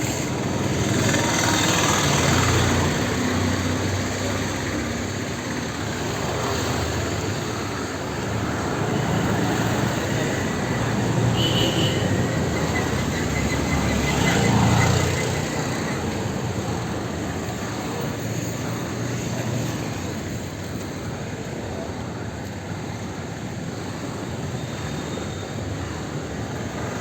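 Busy street traffic: a continuous mix of vehicle engines and tyre noise, swelling louder as vehicles pass about two seconds in and again around fifteen seconds in, with a brief high tone near the middle.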